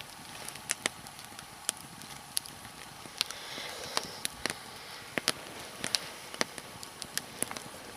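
Nodya log fire burning, the wood crackling with sharp, irregular pops over a steady hiss.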